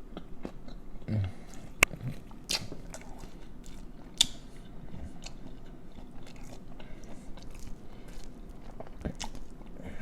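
Close-up chewing and biting of seafood: wet, crunchy mouth sounds with irregular small clicks, the sharpest a little under two seconds in and again around four seconds.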